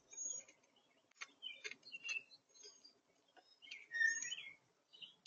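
Small songbirds calling: a scatter of short chirps and thin high whistled notes, with a louder call about four seconds in.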